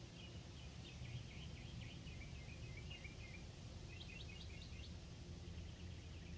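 A songbird singing in quick runs of chirping notes for about three seconds, then a short burst again about four seconds in, over a low steady rumble.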